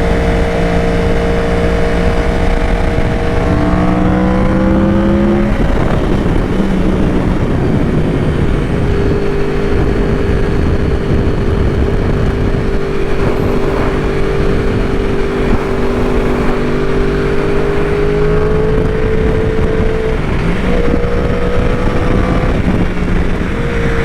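Yamaha R1 inline-four motorcycle engine heard from the rider's position, holding steady revs with a rise in pitch about four to five seconds in and gear changes near six and twenty seconds, under heavy wind rush on the microphone.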